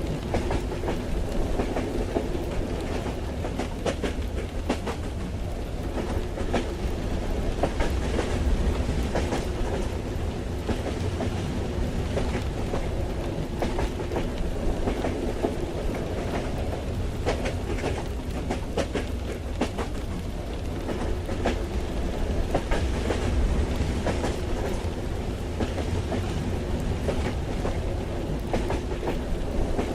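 A moving train heard from inside the carriage: a steady low rumble with scattered clicks of the wheels running over the rails.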